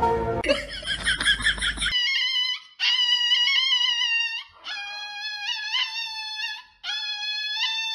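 Small poodle wailing in long, high-pitched cries, each held for one to two seconds with brief breaks between, four in a row from about two seconds in, protesting at having its nails clipped. The first two seconds hold a different, fast warbling sound.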